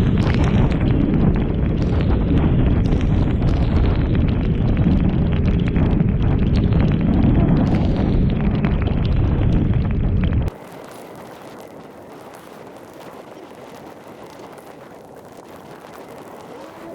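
Storm-force wind buffeting the microphone: a loud, continuous low rumble that cuts off suddenly about ten seconds in, leaving a faint hiss.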